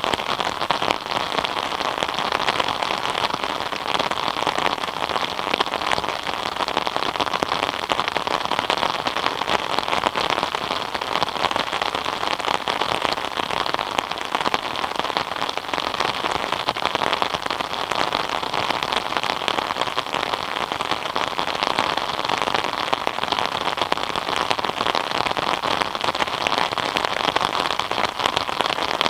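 Steady rain falling, a dense even patter of drops on surfaces with no let-up.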